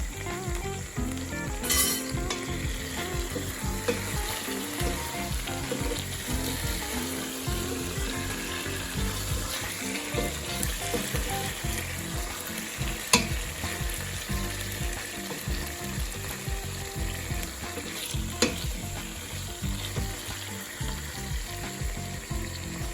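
Fried chicken pieces in thick sauce sizzling steadily in a pan just after soy sauce is added, with three sharp clicks, about two, thirteen and eighteen seconds in.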